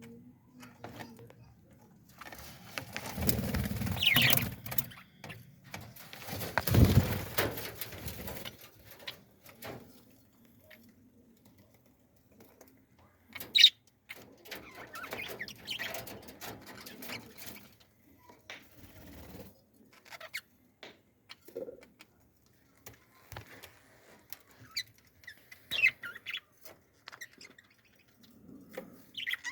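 Birds chirping now and then with short, high calls. Two longer rustling, noisy bursts come a few seconds in.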